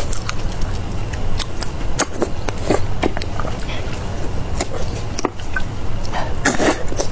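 A person eating close to the microphone: chewing, biting and lip-smacking heard as many short wet clicks and brief crunchy bursts, over a steady low hum.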